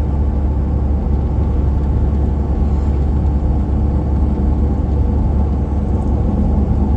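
Steady low rumble of road and engine noise heard from inside a moving truck's cab.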